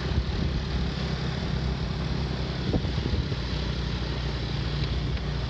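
Motor scooter engine running steadily while riding through traffic, with a low even drone and rushing noise and a few small knocks.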